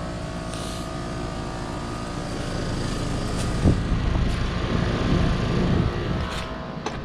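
2017 American Standard Silver 14 heat pump's outdoor unit running in heating mode: a steady hum from the compressor with the whir of the fan. A low rumble swells through the middle, with a sharp knock a little past halfway.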